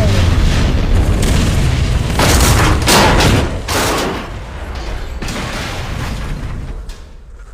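Explosions in a film soundtrack: a loud blast with heavy rumbling, swelling again with further blasts about two to three and a half seconds in, then dying down over the last few seconds.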